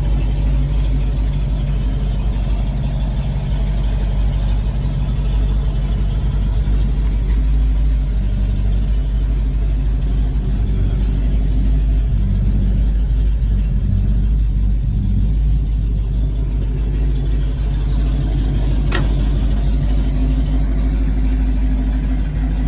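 The 1969 Pontiac Firebird's V8 engine running at a steady, low, even pitch, with one sharp click about three-quarters of the way through.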